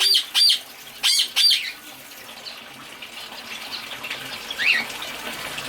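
Caged pet birds calling in an aviary: a run of loud, harsh repeated squawks in the first second and a half, then softer scattered chirps and a short rising call. Steady running water hisses behind them.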